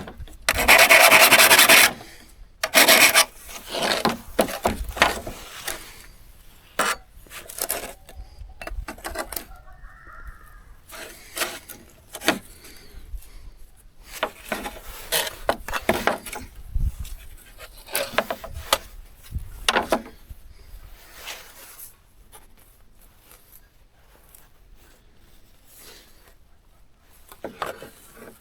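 Rasping, scraping strokes of hand work on an old hand saw. A long, loud stroke opens, followed by many short, irregular scrapes and knocks, with a quieter lull near the end.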